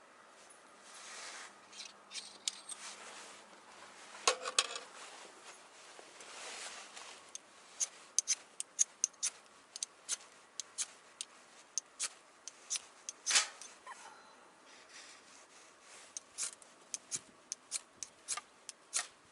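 Soft rubbing and handling sounds, then a run of sharp snipping clicks, about two a second.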